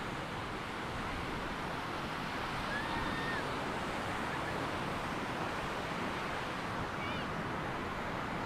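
Surf washing onto a sandy beach, a steady rushing wash of waves, with a couple of faint short high chirps about three and seven seconds in.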